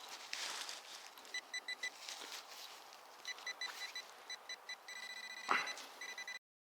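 Nokta Makro Simplex Plus metal detector beeping as the coil sweeps over a buried target: many short high beeps in quick groups, with one longer held tone about five seconds in. A single thump follows, and the sound cuts off abruptly near the end.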